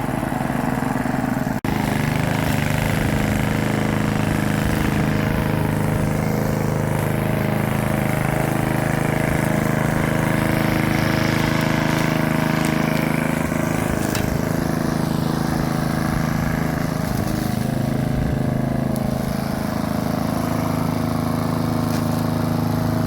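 Lawn mower engine running steadily while cutting grass, with a momentary break in the sound about one and a half seconds in.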